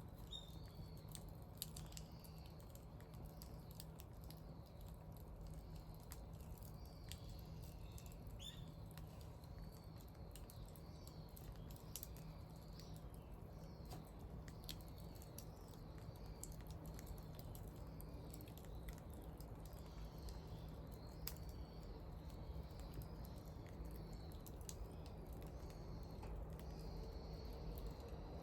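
Wood fire crackling with frequent small irregular pops, while small birds chirp repeatedly.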